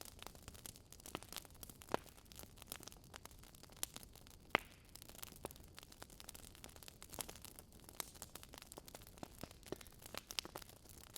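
Wood fire crackling in a fireplace: faint, irregular small pops and snaps over a soft hiss, with a louder pop about two seconds in and another about four and a half seconds in.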